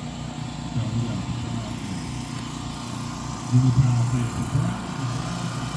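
A low man's voice talking indistinctly in short phrases, loudest about three and a half seconds in.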